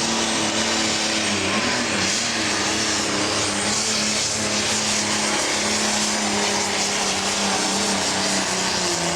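Pro stock pulling tractor's turbocharged diesel engine running at full throttle under load down the track, a loud steady engine note that wavers slightly in pitch.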